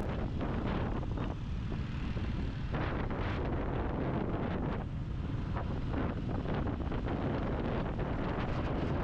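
Wind buffeting the action-camera microphone on a moving motorcycle, a steady low rumble, with the Royal Enfield Classic 350's single-cylinder engine running underneath.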